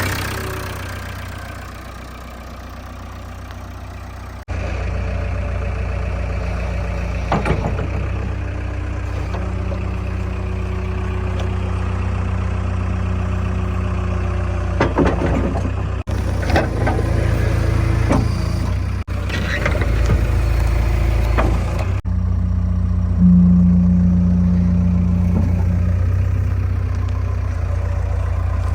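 Diesel engine of heavy machinery running steadily at low revs, with a few short knocks. The sound jumps abruptly several times where clips are cut together.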